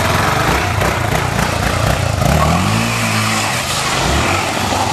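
Single-cylinder Honda trail motorcycle engine revving, its pitch rising about two seconds in and holding briefly before dropping away.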